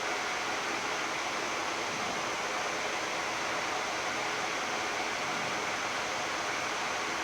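Steady, even hiss of a Boeing 787-10 flight deck's air conditioning and ambient cockpit noise while the airliner taxis slowly into its stand, with no changes or distinct events.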